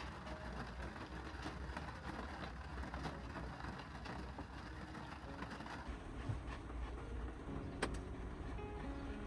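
Heavy rain falling steadily on a kei van, an even hiss of rain peppered with fine patters of drops. A single sharp click stands out near the end.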